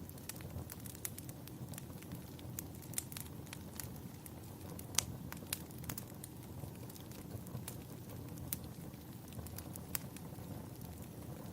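Wood fire crackling in a fireplace: scattered sharp pops and snaps over a steady low rumble, the loudest pop about five seconds in.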